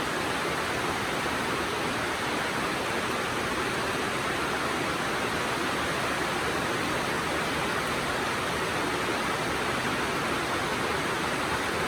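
Steady rainfall: an even hiss without separate drops standing out or any change in strength.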